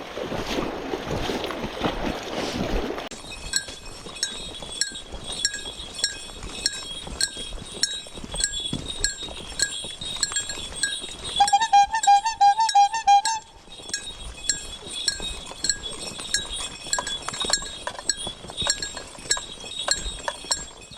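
Running stream water for the first few seconds, then it cuts off to a steady pattern of light, bell-like tinkling ticks, a few each second, with a short warbling tone about halfway through.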